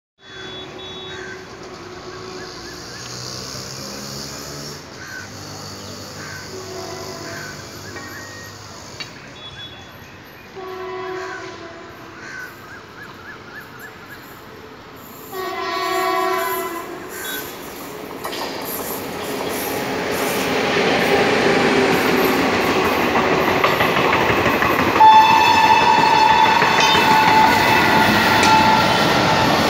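Electric locomotive horn blasts, two clear ones about 11 and 16 seconds in, as a train approaches. Then an express hauled by a WCAM-2 electric locomotive runs past close by, its wheels and coaches making a loud rushing rumble that builds from about 18 seconds in, with a steady tone joining about 25 seconds in.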